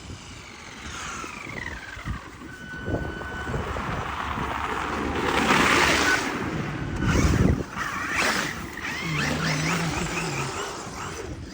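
Traxxas RC car's motor whining, its pitch sliding down and up as the throttle changes. Loud rushing surges come with it around the middle.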